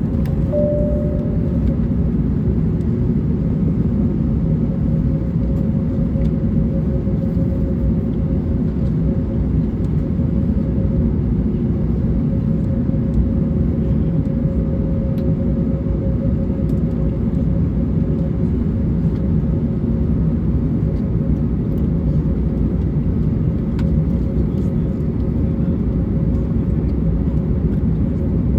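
Airbus A321neo cabin noise while taxiing: the engines run at a steady, even level with a dense low rumble, and a steady hum sets in about half a second in and holds.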